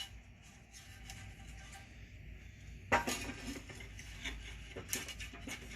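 Small metal screws clinking and rattling as they are handled. Faint scattered clicks at first, then a sharp click about three seconds in and busier clinking after it.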